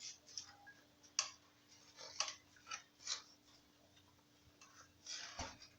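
A few faint, irregular clicks and short scuffing noises, the sharpest about a second in, over a faint steady hum.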